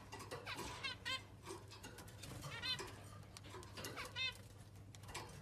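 Pet parrot giving a series of short, arched squawking calls: a quick cluster at the start, then single calls spaced about a second apart.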